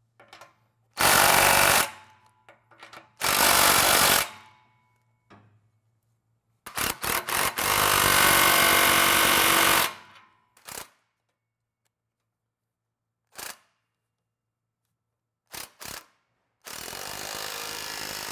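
Air impact wrench run in a series of trigger bursts on exhaust fasteners: longer runs of one to three seconds, with short blips in between.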